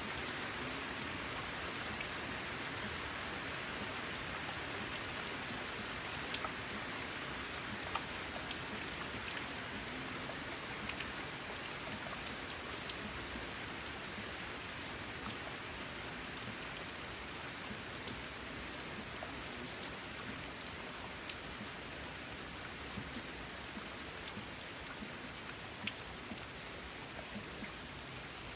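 Steady rain on a corrugated metal (zinc) roof: an even patter with scattered louder single drops ticking on the sheet.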